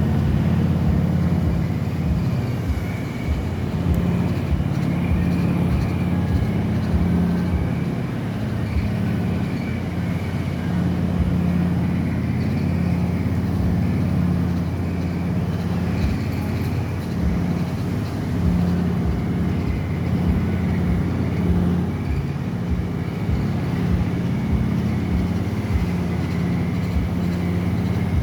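Coffee dryer machinery running: a steady low hum with irregular low knocks throughout.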